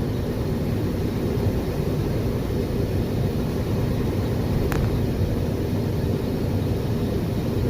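Steady low rumble of a semi truck's diesel engine and tyre noise on a snowy road, heard from inside the cab while driving.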